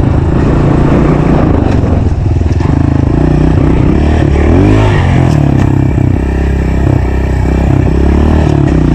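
Honda CRF125 dirt bike's single-cylinder four-stroke engine running as the bike is ridden, its pitch climbing and dropping as the throttle is opened and eased off, with a marked rev about halfway through.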